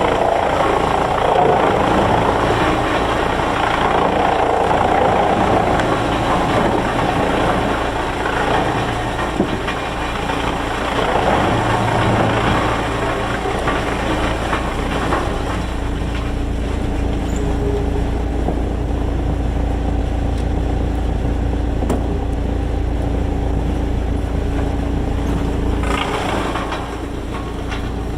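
A heavy engine running steadily with a constant low hum, noisier and busier for about the first half before settling to a smoother drone.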